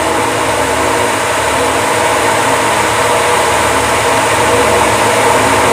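Steady, loud drone of running engine-room machinery, an engine hum with several steady tones over a constant noise.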